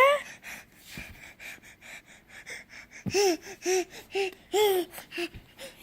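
A nine-month-old baby babbling: breathy gasps, then a run of five short, evenly spaced syllables of the same sing-song shape.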